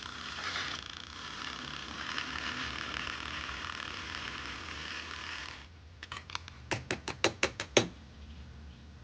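A steady hiss that cuts off suddenly about five and a half seconds in, followed by about nine quick, sharp clicks or taps.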